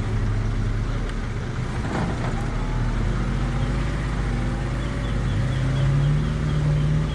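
Off-road vehicle engine running steadily, its pitch rising slightly about five seconds in. Short high chirps repeat near the end.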